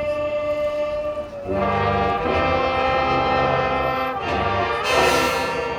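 High school marching band's brass section playing sustained chords. A softer held chord gives way, about a second and a half in, to the full band coming in louder with low brass, and the sound swells near the end.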